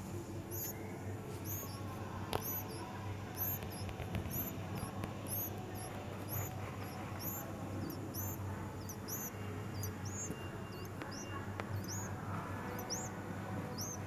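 Fledgling bird cheeping: short, high chirps repeated about twice a second, over a low steady hum.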